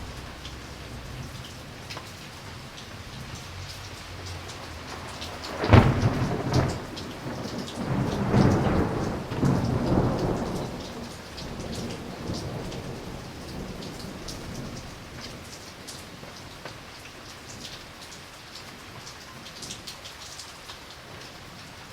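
Steady rain falling, with a sharp thunderclap about six seconds in that rolls on as rumbling for several seconds and fades away.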